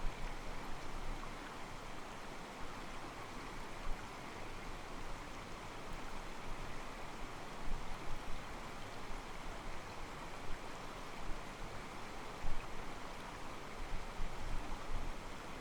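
Calm mountain stream flowing over rocks: a steady rush of water with soft sloshing against the rocks, and a few brief louder splashes.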